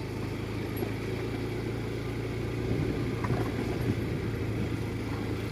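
Steady hum of a vehicle engine running at an even speed while travelling.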